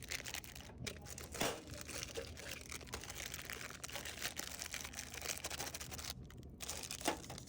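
Plastic snack bags crinkling and rustling as they are handled and slid into a vending machine's coils, with a couple of sharper knocks.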